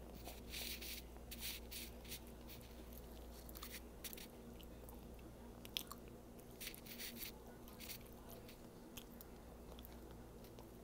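Chewing and biting on barbecue chicken: a faint, irregular string of short mouth smacks and clicks over a low steady hum.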